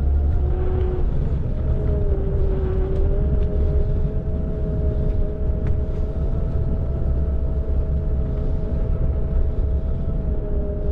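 Xiaomi Electric Scooter 4 Pro being ridden: a steady electric motor whine in two tones that drift slightly up and down in pitch, over a heavy low rumble.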